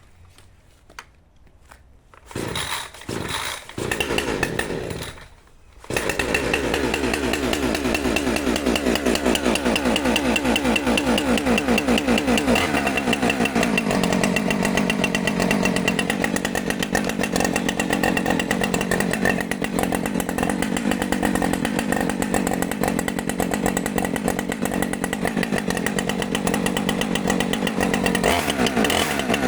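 Husqvarna 545 Mark II two-stroke chainsaw on a cold start: it fires in three short bursts, then catches about six seconds in and runs steadily. Around 13 seconds in its pitch drops a little as it settles.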